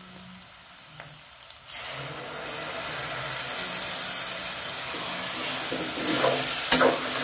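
Water-soaked ground spice masala poured into hot oil and frying onions in a steel kadai: quiet at first, then a sudden loud sizzle just under two seconds in that keeps going. Near the end a steel ladle scrapes the pan as the masala is stirred.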